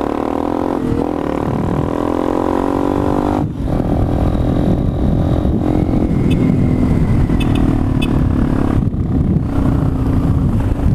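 Motorcycle engine running under way, its pitch falling steadily for the first three seconds or so, dropping out briefly, then running steadier with a rough low rumble, with another short dip near the end.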